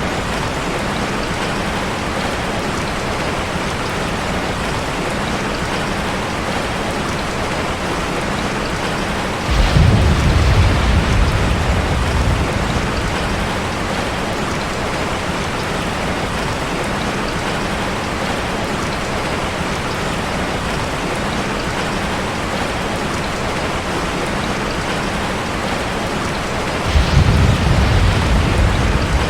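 Heavy rain pattering steadily on a car's roof and windows, heard from inside the car. A low rumble of thunder swells up about ten seconds in and again near the end, each dying away over a few seconds.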